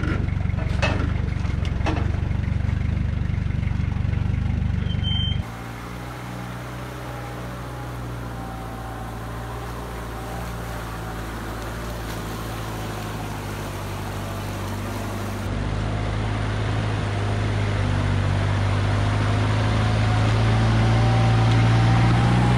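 A vehicle driving with its engine running steadily, the sound changing abruptly twice and growing slowly louder toward the end.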